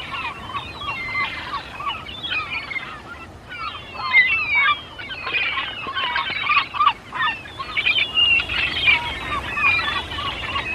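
Nestling birds begging: many rapid, overlapping chirps and squawks, some repeated several times a second, the calls of hungry chicks in the nest.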